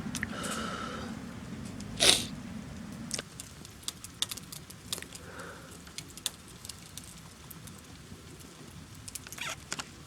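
Wood campfire crackling in a Picogrill fire pit, with irregular sharp pops scattered throughout and one louder short burst about two seconds in.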